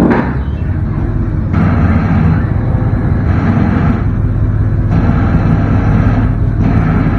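Chevrolet Silverado 8.1 Vortec V8 engine running steadily with a low hum while its forks lift a truck body. A higher rushing noise cuts in and out several times.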